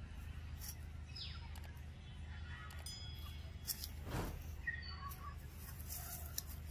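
Birds chirping in short high notes over a steady low hum, with scattered light clicks and rustles.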